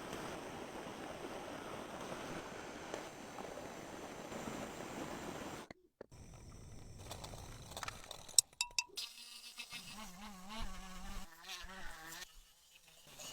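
A small motorised tool buzzing: a steady rough whirr that cuts off abruptly about six seconds in. A few sharp clicks follow, then a lower buzz whose pitch wavers up and down.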